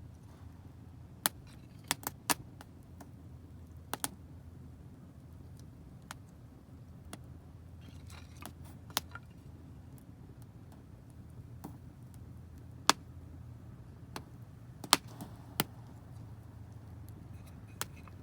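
Wood fire of damp firewood crackling: sharp, irregular pops and snaps, a cluster about two seconds in and more around the middle and near the end, over a low steady rumble.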